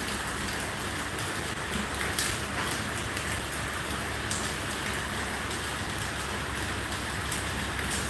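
Steady rain falling, with scattered sharp ticks of drops hitting a surface.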